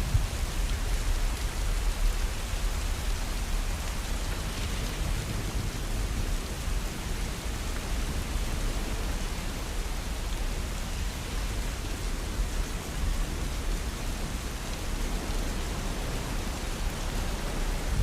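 Steady rain falling, with a low rumble of thunder dying away in the first second or two.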